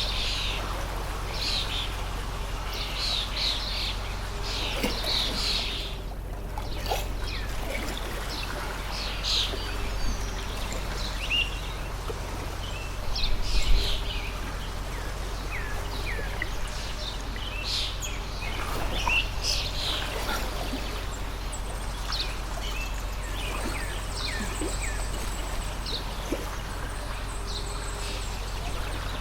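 A stream of running water flowing steadily, with small birds chirping in short calls over it throughout. About halfway through there is a brief louder low thump.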